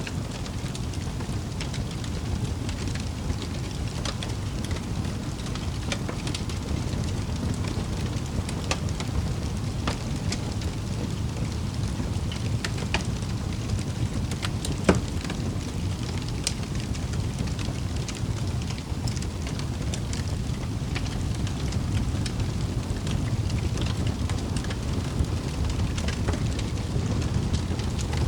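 Wood fire burning in a fireplace: a steady low rumble of flames with scattered crackles and pops, and one louder pop about halfway through.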